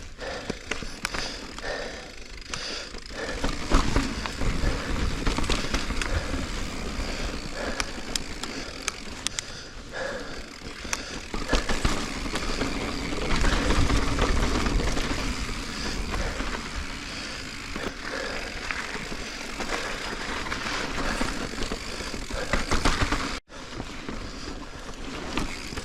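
Mountain bike (2021 Giant Reign Advanced Pro 29) riding fast over slickrock rollers: tyres rolling on rock, with a steady rattle and many sharp clicks from the bike, and wind buffeting the action camera's microphone in strong gusts. The sound breaks off for an instant near the end.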